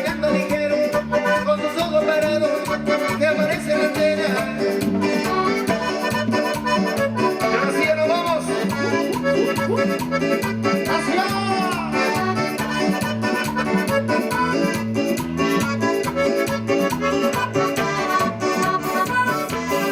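Band playing Latin dance music: an accordion-like lead melody over a steady bass and percussion beat.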